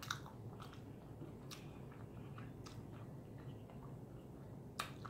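Faint chewing of a mouthful of battered fried food, with a few short crunches or mouth clicks spread through it.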